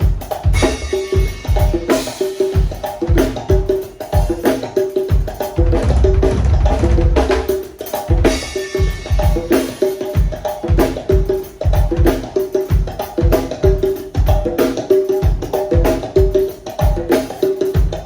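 Drummer playing a fast, steady percussion groove on congas and drum kit, with ringing conga tones over kick-drum hits and bursts of cymbal wash. A dense run of low drum strokes falls about six to seven seconds in.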